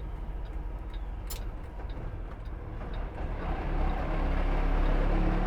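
Semi truck's diesel engine running steadily at low speed, then growing louder about three and a half seconds in as it pulls ahead under more throttle. A few faint clicks sound over it.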